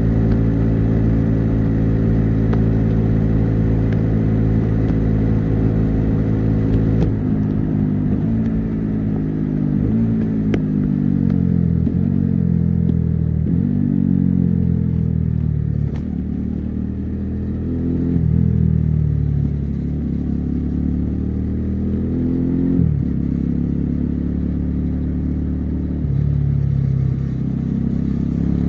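Bajaj Dominar 400's single-cylinder engine and exhaust on a highway run: steady revs at first, then from about seven seconds in the pitch repeatedly climbs and drops sharply, as with throttle changes and gear shifts.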